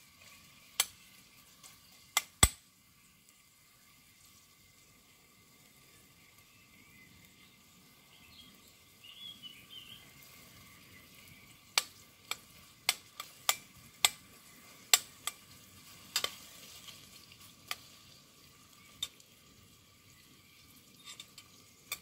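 Food frying in oil in a pot on a camping gas stove, a faint steady sizzle. Over it, sharp clinks of a metal utensil against the pot and plate, a few near the start and a quick run of them about halfway through.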